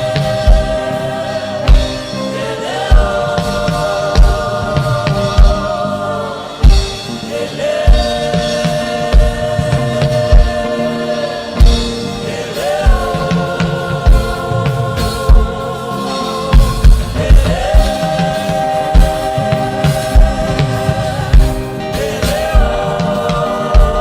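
Gospel worship music: a group of voices singing long held notes that slide up into each new pitch, over a steady drum beat about once a second.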